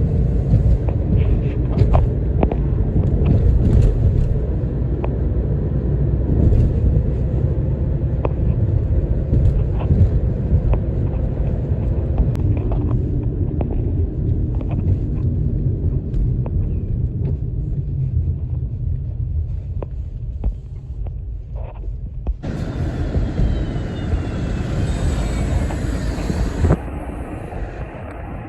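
Steady, loud low rumble of highway traffic, with scattered light clicks. About three-quarters of the way in, the sound switches abruptly to a brighter hiss with a slowly falling tone, like a vehicle passing.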